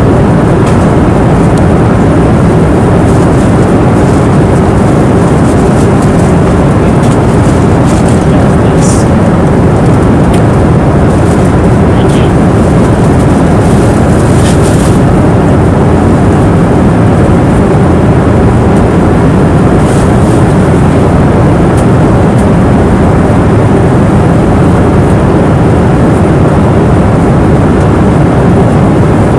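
Airplane cabin noise in flight: a loud, steady, deep rushing roar with most of its weight in the low end. A few faint short clicks come through around the middle.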